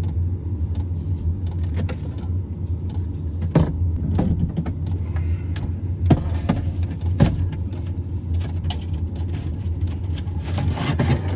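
Loose items clattering and clicking as they are moved around and tidied inside a truck cab, with a few sharper knocks, over a steady low hum.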